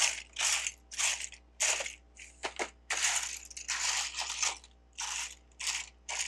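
Loose plastic Lego bricks clattering as a hand rummages through a pile of them, in short rattling bursts about twice a second.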